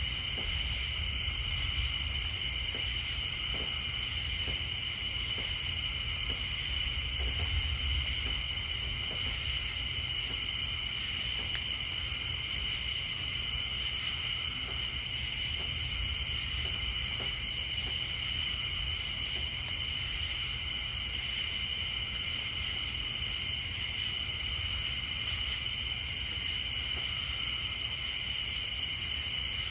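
Steady night chorus of insects and tree frogs: shrill, continuous high trilling, with a still higher call that pulses on and off every two to three seconds, over a faint low rumble.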